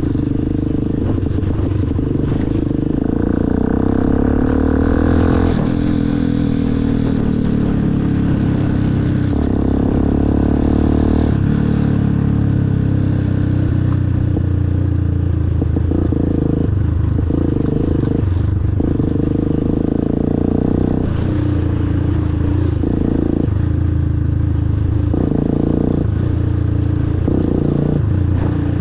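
Motorcycle engine running under way on a ride, its pitch repeatedly stepping up and down as the throttle and revs change.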